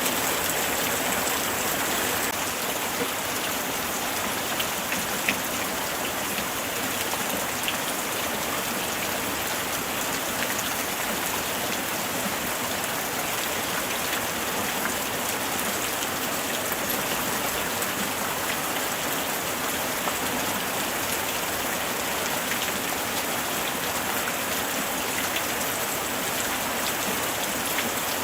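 Steady light rain falling, a continuous hiss with scattered individual drops ticking on a surface.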